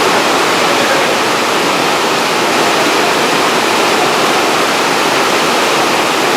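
Torrential rain pouring down in a loud, steady, unbroken hiss.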